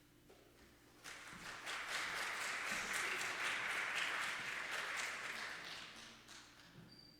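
Church congregation applauding. The clapping starts about a second in, swells, then dies away over the next few seconds.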